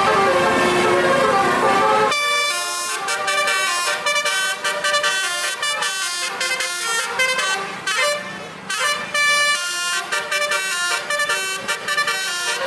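A basuri musical air horn, a set of tuned truck horns, plays a quick tune of separate notes. The first two seconds are instead a noisier blend of gliding horn tones over engine rumble, which cuts off abruptly.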